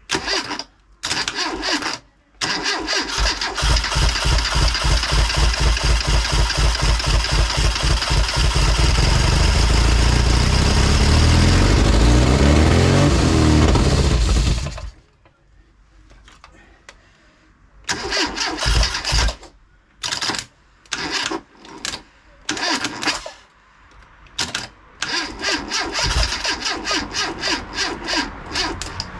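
Freshly rebuilt Classic Mini 1380 A-series four-cylinder engine on its first start: the starter cranks it in two short bursts, then in one long crank of about twelve seconds during which the engine begins to fire and pick up revs before cutting out suddenly. Later come several more short bursts of cranking as it fails to keep running, the engine having a massive air leak.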